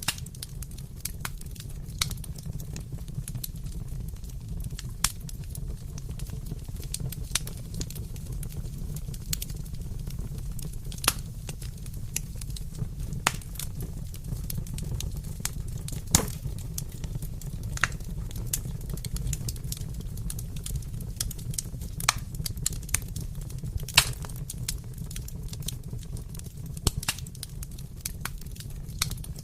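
Wood fire crackling, with sharp irregular pops every second or so over a steady low rumble.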